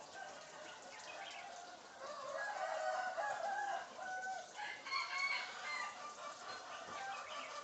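Bird calls: a run of short pitched notes stepping up and down in pitch, loudest in the middle, with a crowing, clucking quality like a rooster.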